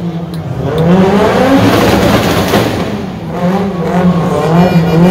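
A car engine revving hard, its pitch rising and falling several times.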